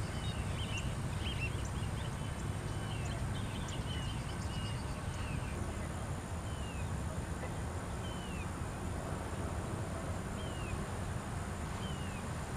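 Birds chirping over a steady low wind rumble: a flurry of short calls in the first few seconds, then one short downward chirp repeated about every second and a half. A thin, steady high-pitched tone runs underneath.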